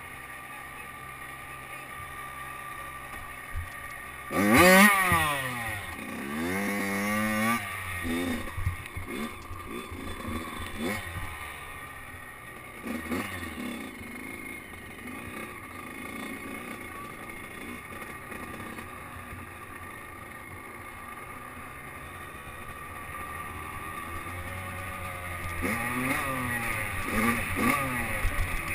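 Motocross dirt bike engine revving up and down, rising and falling in pitch, loudest about five seconds in and again near the end, with engine drone in between.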